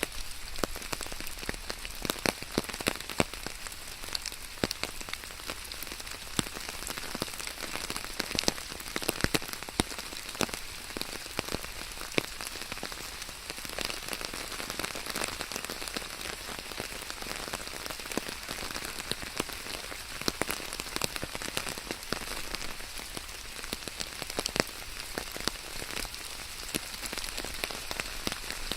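Rain falling steadily on a hard surface: a constant hiss with many sharp, irregular drop taps.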